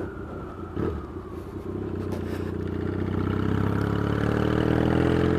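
Yamaha XS650 parallel-twin engine pulling hard through loud pipes, its note rising steadily as the bike accelerates.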